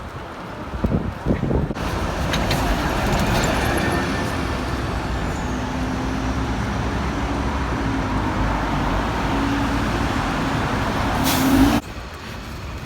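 Loud street traffic: a road vehicle's engine running close by with a steady hum over traffic noise. The hum rises slightly near the end and then cuts off suddenly.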